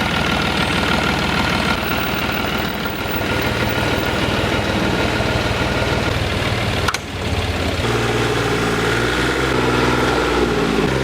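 Diesel engine of a mobile hydraulic power unit running steadily with a fast clattering beat. About seven seconds in there is a sharp click, after which the sound turns into a smoother hum with distinct steady tones.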